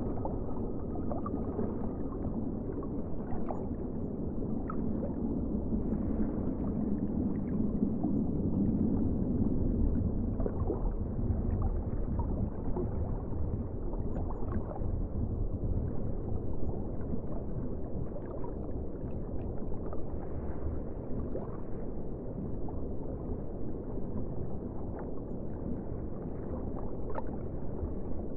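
Ocean water ambience: a steady, low, muffled rush of water with faint scattered clicks and pops.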